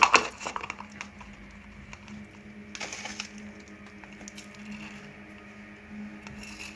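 Faint crackles and small clicks from handling a homemade slime made of styrofoam balls dissolved in nail polish remover, with a short louder crackle about three seconds in, over a steady low hum.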